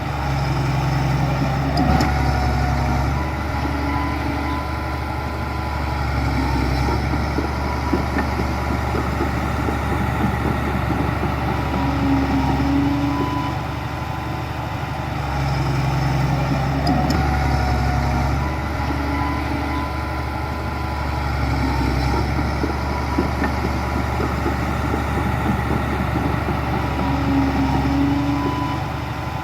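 Heavy diesel earthmoving machinery running, the engine note swelling and easing every few seconds as it works under load, with a faint steady whine above it.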